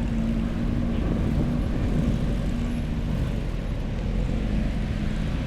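A car engine running steadily with a low, even hum.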